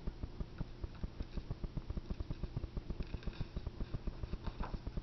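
Domestic cat purring steadily, a rapid, even low throbbing.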